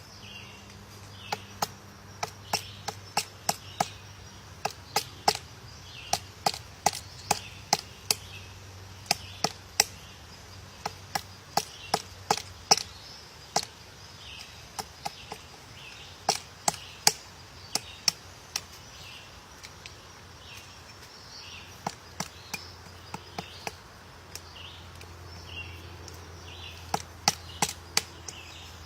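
Woodpecker pecking at wood: single sharp taps at uneven intervals, coming in runs of several with short pauses between, not a fast drum roll.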